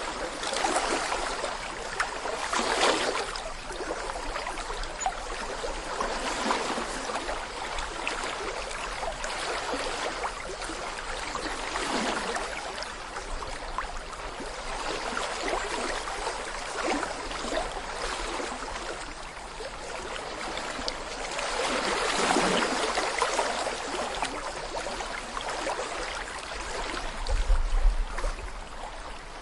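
Small brook babbling over stones: a steady rush of flowing water with gurgles, swelling and easing every few seconds. A brief low rumble comes near the end.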